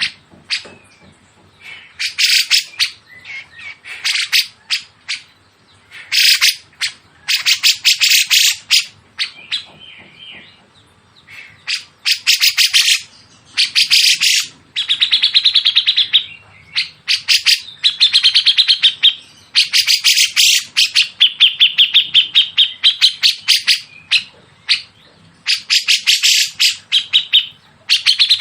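Songbird calling in repeated bursts of very fast, harsh, high-pitched chattering trills, each burst about a second long with short gaps between.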